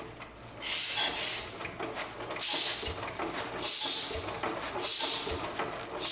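1930s Stover 10 hp single-cylinder diesel being turned over by hand in an attempt to start it, with a hissing puff of air about every second and a low thump with each turn.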